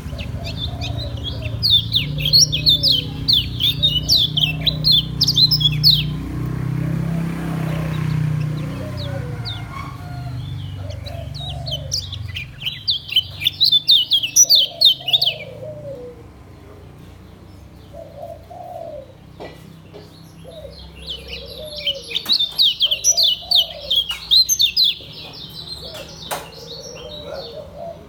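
Kecial kuning singing its fast rolling 'ngejos' song in three rapid chattering bursts of high notes, one near the start, one in the middle and one toward the end. A dove coos repeatedly at low pitch throughout, over a low hum that fades out about halfway.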